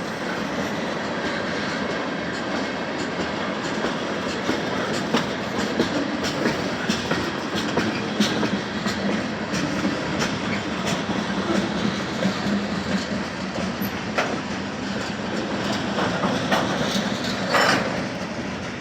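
Freight train cars rolling past, with the wheels clacking repeatedly over rail joints and a short screech near the end.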